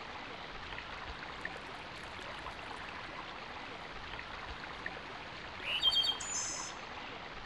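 Steady outdoor background hiss, with a bird calling once near the end: a quick rising note followed by a short run of high chirps.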